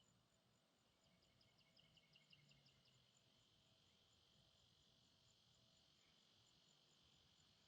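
Faint forest insect chorus: a steady high drone with a regular high tick about three times a second. Between one and three seconds in, a short quick run of about ten notes rises over it.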